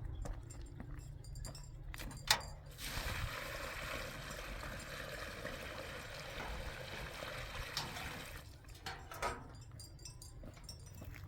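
Water being poured in a steady stream for about five seconds, starting and stopping abruptly, with a sharp knock just before it begins.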